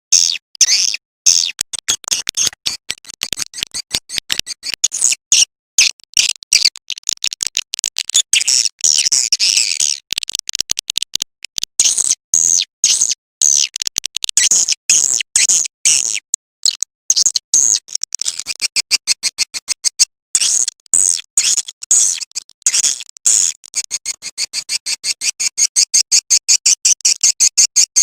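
Edible-nest swiftlet lure call recording: a fast, unbroken string of high-pitched chirps and clicks, many per second.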